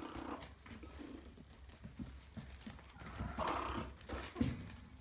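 Maltese puppies moving about, with many light paw taps and scuffles. There is a short puppy whine about three and a half seconds in and a single knock near the end.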